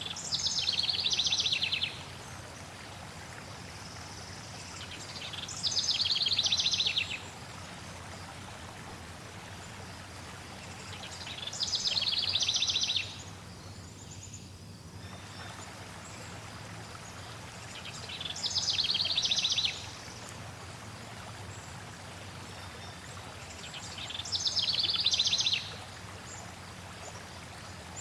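A songbird sings the same short, fast trilled phrase five times, about once every six seconds, over the steady rush of flowing water.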